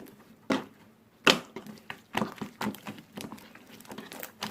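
Slime being squished and pressed by hand: irregular sticky clicks and crackles, with one louder pop about a second in.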